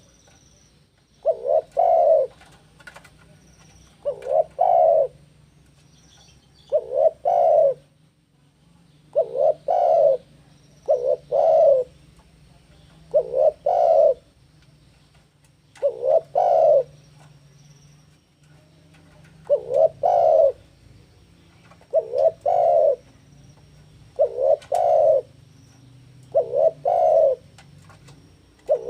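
Male spotted dove (tekukur) cooing in breeding condition: a short two- or three-note coo phrase repeated about every two seconds.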